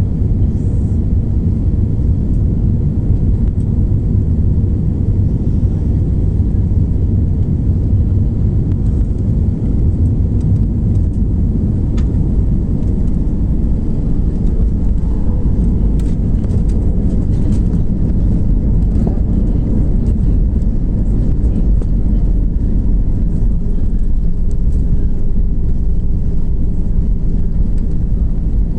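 Airbus A320 airliner landing: a steady low rumble that holds an even level throughout, with a few faint clicks and rattles over it.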